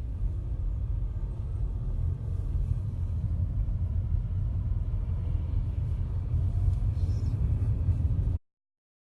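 Steady low rumble of vehicle road and engine noise that cuts off suddenly about eight seconds in.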